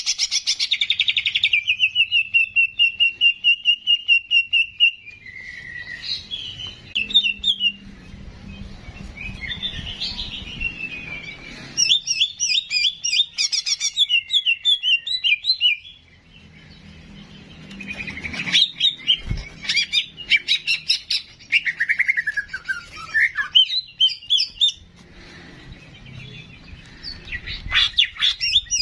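Cicak jenggot songbird singing in bursts: a long fast trill, rapid chattering runs of chirps and whistled notes that glide downward, with short pauses between phrases. It is used as a masteran recording for teaching other cage birds to sing.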